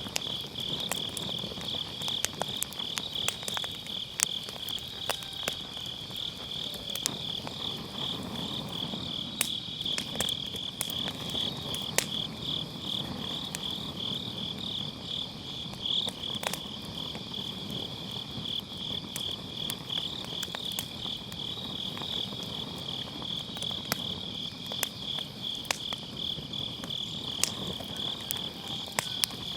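Crickets chirping in a steady, rapid pulsing trill, over a wood fire in a fire pit crackling with scattered sharp pops and a low rush of flame.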